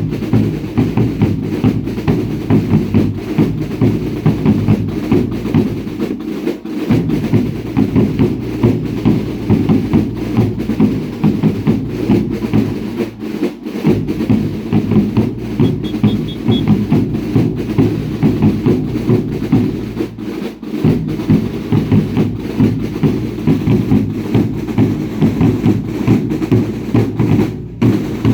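Drums of a baile indio dance troupe beating a quick, steady rhythm, with deep bass-drum strokes under sharper snare-like hits. The deepest drum drops out briefly about every seven seconds.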